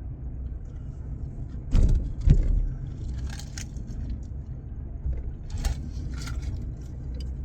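Car driving, heard from inside the cabin as a steady low rumble of engine and road noise. Two thumps come about two seconds in, and a few light clicks and rattles follow.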